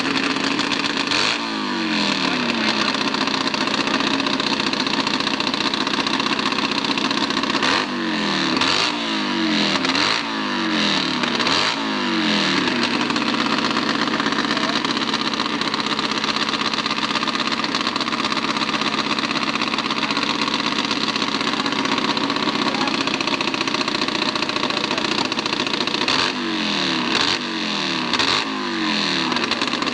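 Hillclimb racing motorcycle engine running throughout. Its pitch sweeps up and down in quick repeated runs three times: about a second in, for a few seconds in the middle, and again near the end.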